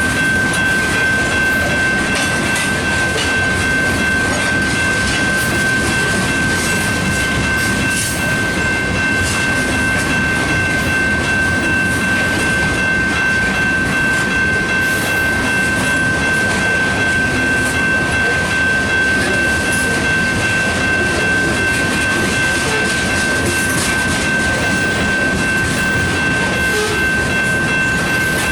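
Ethanol freight train's tank cars rolling past, a steady rumble and clatter of wheels on rail, with a steady high whine.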